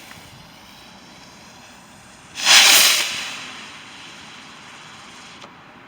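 A firework rocket launching: a sudden loud whooshing hiss about two and a half seconds in that fades away over a second or so.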